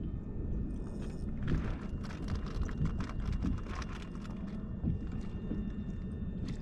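Wind rumbling on the microphone over open water, with a run of small clicks and taps in the middle. Under it is a faint steady whistle: fishing line vibrating in the wind.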